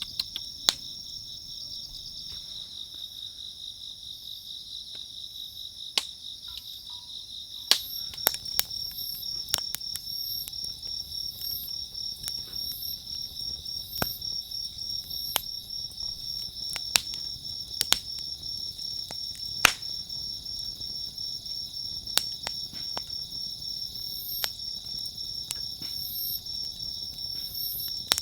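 Crickets or similar insects chirping steadily in a fast, even trill, with scattered sharp clicks and knocks now and then.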